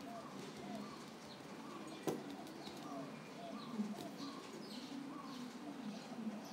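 Birds calling outside: many short, repeated chirping calls with lower cooing among them, and a single sharp click about two seconds in.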